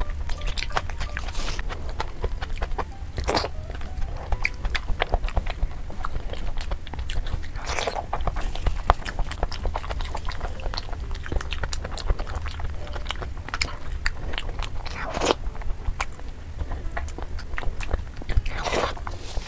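Close-miked, wet chewing and mouth smacking as a mouthful of fufu and chicken curry is eaten by hand: a dense run of irregular sticky clicks, with a few louder smacks every few seconds. A low hum runs underneath.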